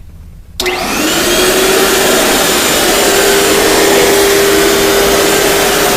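ProTeam backpack vacuum cleaner switched on about half a second in, its motor spinning up with a rising whine and then running steadily at full speed.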